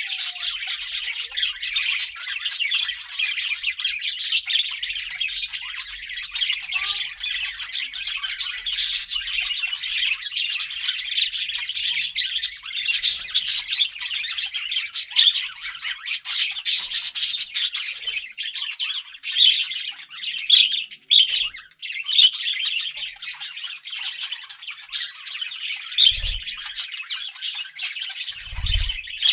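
A group of budgerigars chirping and chattering without a break, a dense warble of short chirps and squawks. Two brief low thumps come near the end.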